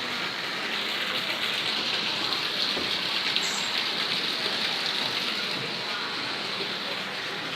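Steady rushing hiss of water, even throughout, with one brief faint high sound about halfway through.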